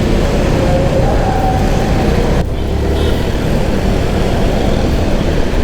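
Motorcycle riding in city traffic: a steady, loud rush of engine, road and traffic noise with no distinct events.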